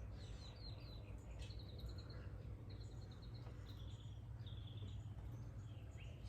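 Faint bird chirping, short high calls and quick trills repeating on and off, over a low steady hum.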